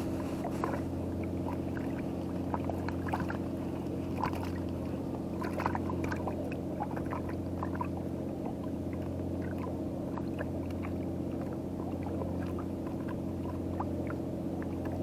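An engine running steadily at idle, a constant low hum, with small irregular splashes and trickles of water over it.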